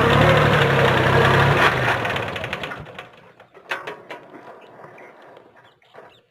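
Mitsubishi 4x4 mini tractor's diesel engine running steadily, then shut off about a second and a half in, its sound dying away over the next second. A few faint clicks and knocks follow.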